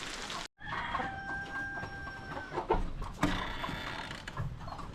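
Chickens calling, one holding a steady drawn-out note, with two sharp knocks about three seconds in.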